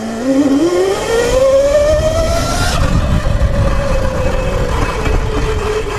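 Sur-Ron electric dirt bike's motor whining as it accelerates hard, the whine climbing in pitch for about two and a half seconds and then slowly falling as the throttle eases, over a low rumble.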